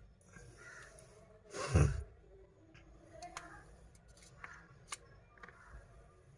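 Light handling noises and small clicks from tools and parts on a phone-repair bench, with one louder brief rush and thump a little under two seconds in.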